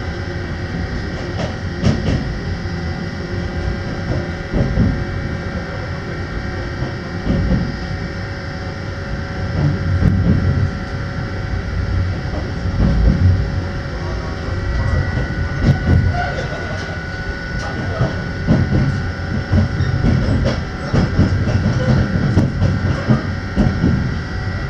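Running noise inside a moving passenger train, the 485-series 'Utage' excursion train: a steady rumble with irregular heavy thumps of the wheels over rail joints and points.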